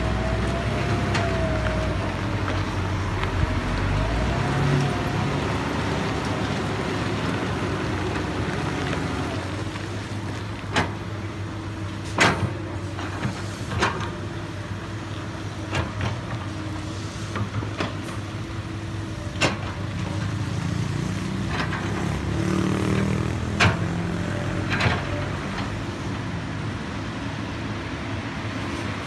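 Komatsu PC200 hydraulic excavator's diesel engine running steadily under load. A faint whine rises and falls in the first several seconds, and about seven sharp knocks come at irregular intervals from about ten seconds in.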